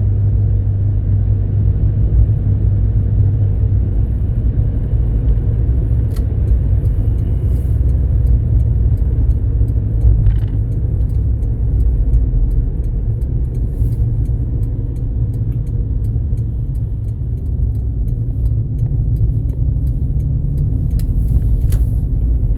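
Steady low rumble of a car driving, as heard from inside: engine and road noise with no marked changes.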